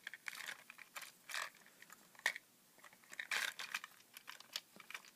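Scattered light clicks, taps and rustles of a plastic toy train being handled, with a brief rustling cluster about three and a half seconds in.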